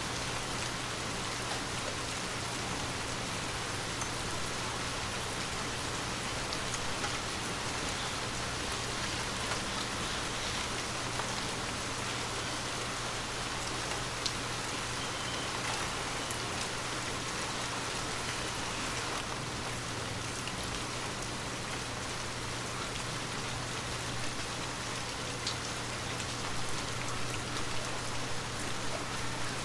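Steady rain falling on a window, an even hiss with individual drops tapping; the taps grow a little louder and more frequent in the last few seconds.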